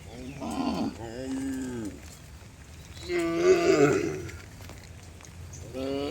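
Cattle mooing: several drawn-out calls, some falling in pitch, the loudest about three seconds in and another starting near the end.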